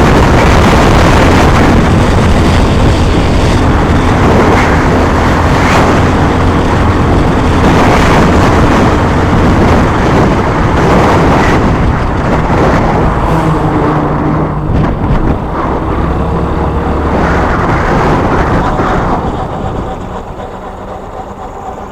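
A vehicle under way, heard from on board: loud, steady running noise with a low hum and rushing wind, which drops off sharply near the end.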